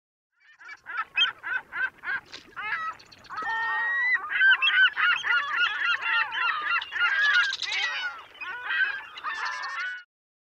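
A flock of birds calling: short repeated calls, separate at first and then overlapping into a dense chorus from about four seconds in, cutting off abruptly near the end.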